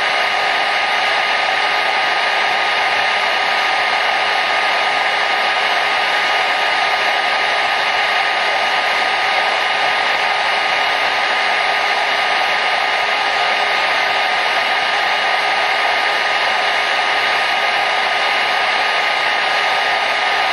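Hair dryer running steadily: a constant whooshing rush of air with a faint motor whine.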